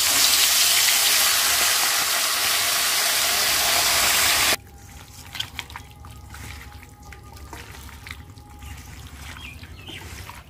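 Marinated chicken sizzling loudly in hot oil in a kadai, cutting off suddenly about four and a half seconds in. After that come quieter handling sounds with small clicks as a hand mixes spiced chicken pieces in a steel bowl.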